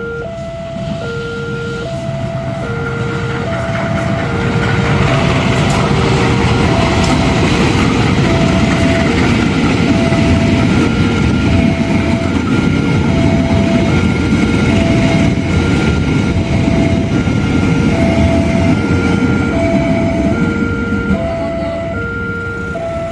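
Level-crossing warning alarm sounding two alternating electronic tones over and over while a train passes. The train's rumble and wheel clatter build up a few seconds in, stay loud through the middle and ease off near the end.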